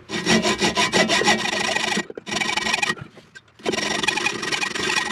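A saw cutting through the protruding end of a toilet closet bolt, in three stretches of sawing: about two seconds, a short burst, then another of about two seconds.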